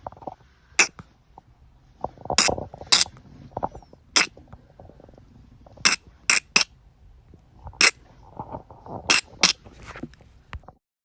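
About ten sharp clicks and knocks at irregular spacing, with a low rumble between them. The sound cuts off abruptly near the end.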